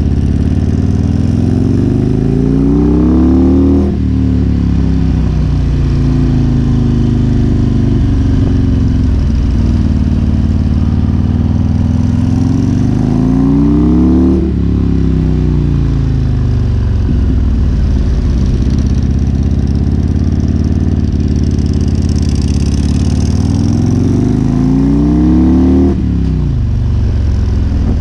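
Harley-Davidson Road King's Twin Cam 88 V-twin engine under way, its pitch climbing three times and dropping suddenly at each upshift, easing down in between.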